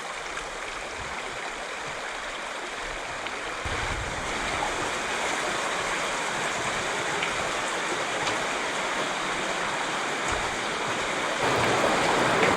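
Mountain creek water rushing steadily, getting louder about four seconds in and again near the end.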